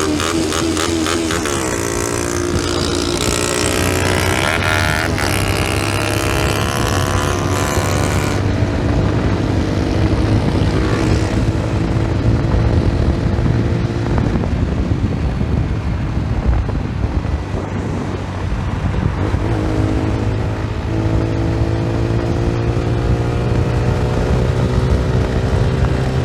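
A 125 cc single-cylinder motorcycle being ridden. Its engine note climbs in pitch as it accelerates early on, runs steadier for a stretch, then climbs again over the last several seconds.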